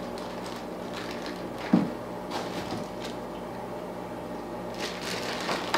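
Rustling and crinkling of plant packaging being handled, with one knock about a second and a half in, over a steady low electrical hum.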